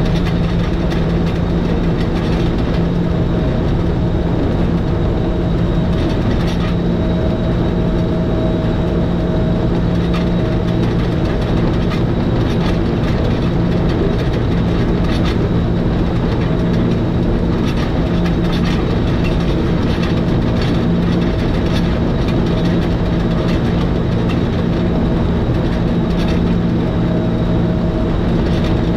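Electric rack-railway train running downhill on the Schynige Platte Railway's Riggenbach rack, heard from the driver's cab. A steady mechanical hum with a constant gear whine, and scattered clicks of the wheels on the track.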